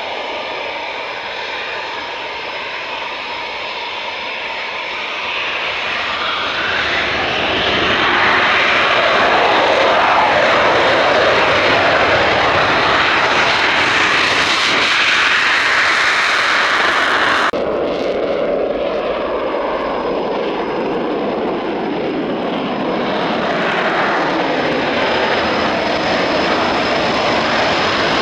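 Eurofighter Typhoon jet engines running loud during a departure, the noise swelling to a sustained peak. About 17 seconds in it drops off suddenly, then builds again towards the end.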